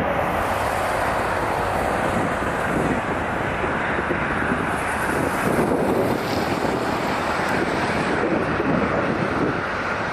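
Delta Boeing 767-400ER's twin General Electric CF6 jet engines during takeoff: a steady, loud rumbling noise, with wind buffeting the microphone.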